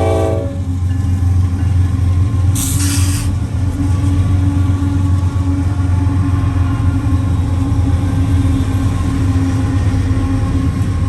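A passing diesel-hauled train: a multi-note train horn chord cuts off about half a second in, then a steady low engine drone with a short high hiss near three seconds.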